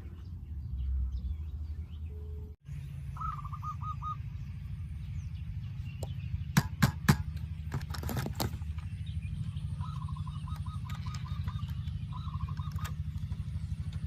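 A bird chirping in short trills of quickly repeated notes, several times, over a steady low hum, with a cluster of sharp clicks or knocks about halfway through.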